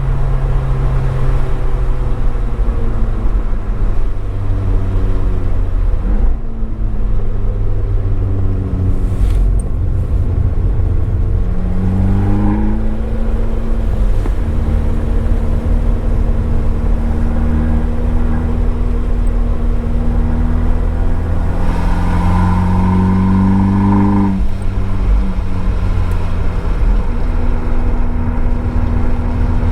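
Abarth 595 Esseesse's turbocharged 1.4-litre four-cylinder through an Akrapovič exhaust, driven hard on track. The revs fall in steps early on, then climb twice under full throttle, each climb cut off by an upshift, with steady running in between.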